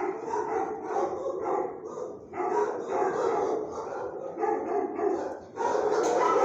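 Dogs barking over and over, about two to three barks a second, with short breaks and the barking growing denser and louder near the end.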